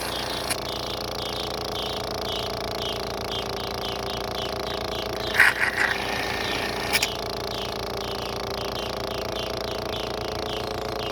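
Honey suction device running with a steady, pulsing mechanical hum as it draws honey from the stingless-bee hive. A couple of short knocks sound about halfway through.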